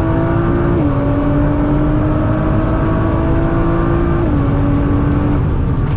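Nissan GT-R engine pulling hard at full throttle during a drag race, its pitch climbing steadily and dropping sharply at two upshifts, about a second in and a little past four seconds, over heavy wind and road rumble.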